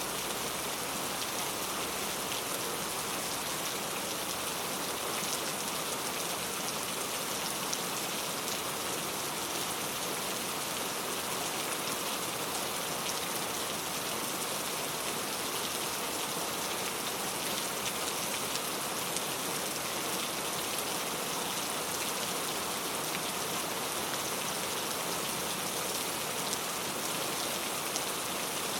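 Very heavy rain falling steadily, a dense even hiss of drops on surfaces with fine ticks of individual drops.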